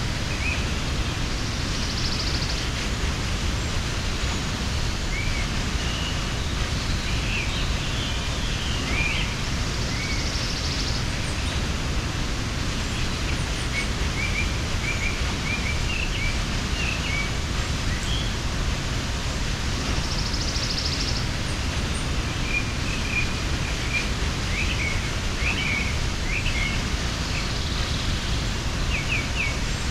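Waterfall rushing in a steady, dense roar of falling water, with small birds chirping now and then above it and a short higher call recurring about every eight to ten seconds.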